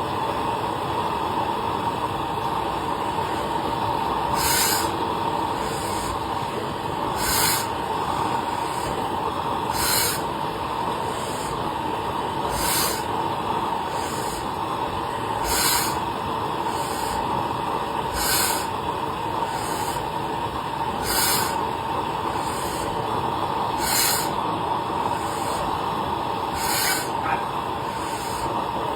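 A 1940 Lanz Bulldog 20 PS tractor's single-cylinder two-stroke hot-bulb engine running steadily under load, pulling a trailer of firewood. A short hiss-like pulse recurs about every second and a half, every other one stronger.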